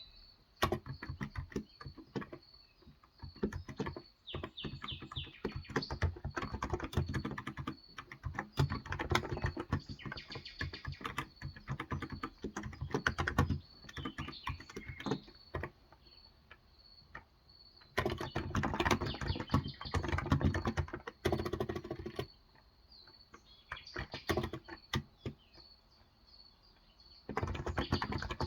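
Typing on a Cox Endeavor electro-capacitive keyboard (35 g tenkeyless), quick runs of muted keystrokes in bursts broken by pauses of a few seconds.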